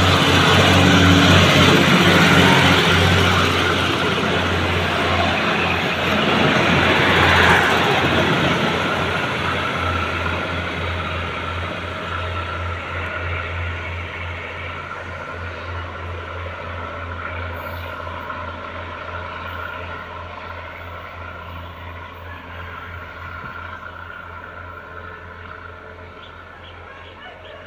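A motor vehicle running with a steady low hum, loudest in the first few seconds and then fading away steadily, as if moving off.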